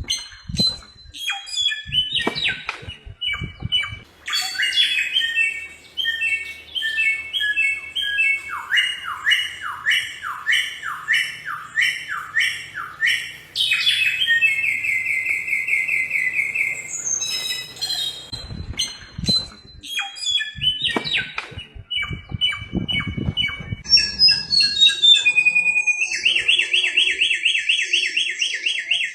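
Bare-throated whistler (samyong) singing a long, varied song of repeated whistled notes. A run of falling slurred notes comes in the middle, and fast trills come near the end.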